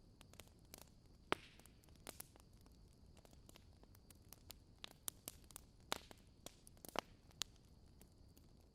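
Wood fire crackling in a fireplace: irregular sharp pops and snaps over a soft steady hiss, the loudest snaps about a second in and again near the end.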